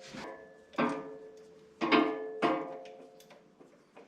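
Steel three-point-hitch hardware clinking as the tractor's top link is worked onto the hitch: three sharp metal knocks about a second apart, each ringing on briefly, then a few faint ticks.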